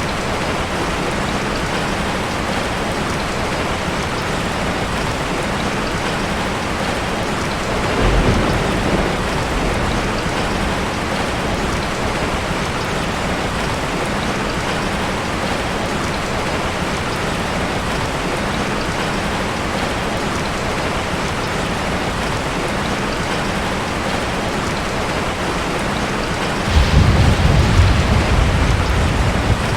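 Steady rain falling, with two low rumbles of thunder: a short one about eight seconds in and a longer one near the end.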